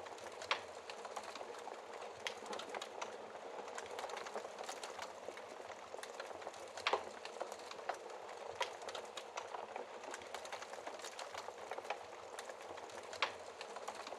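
Wood fire crackling in a fireplace: a steady hiss of burning with many small snaps of the wood, and four louder pops spread through.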